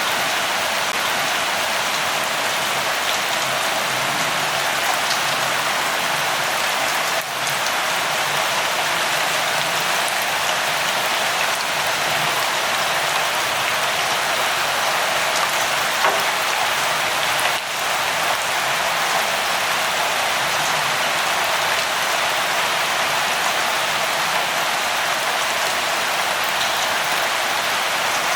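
Steady light rainfall, an even hiss of many drops.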